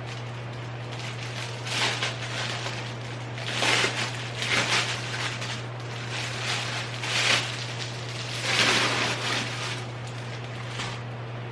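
Rustling of clothes or packing material being handled, in several irregular swishes over a steady low hum.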